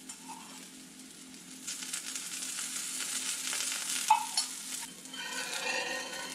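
Omelette frying in oil in a cast-iron pan. The sizzle grows louder about two seconds in as a little more oil goes in, with one sharp clink about four seconds in and a spatula scraping under the omelette near the end.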